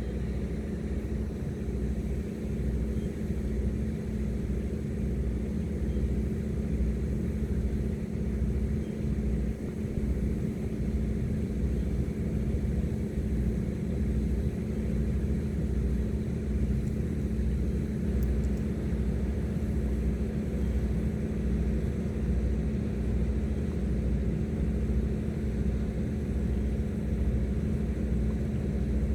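High-speed passenger boat's engines running steadily under way, a constant drone with a steady hum and a slow, regular throb underneath.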